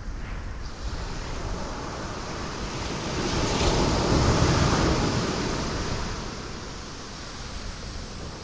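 Ocean waves breaking on rocks: a steady wash of surf, with one wave swelling and crashing a few seconds in and then draining away.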